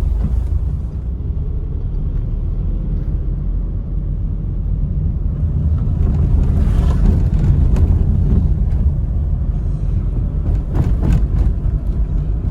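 Steady low rumble of a moving vehicle with wind on the microphone, broken by a few brief knocks.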